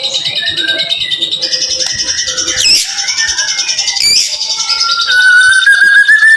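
White-rumped shama (murai batu) singing a dense string of rapid, high, chattering notes, the fast 'tembakan' style of song. About five seconds in it adds a sustained, slightly rising whistle.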